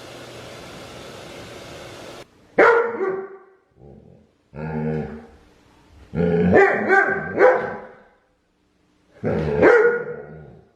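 A steady rushing noise cuts off about two seconds in. A dog then barks repeatedly in several separate groups of calls, some of them drawn out and falling in pitch.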